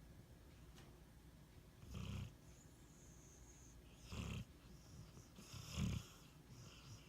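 Sleeping pit bull snoring in REM sleep: three short snores about two seconds apart, the last the loudest.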